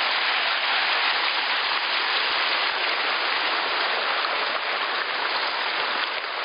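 Spring snowmelt runoff rushing over granite, a steady, even rush of water.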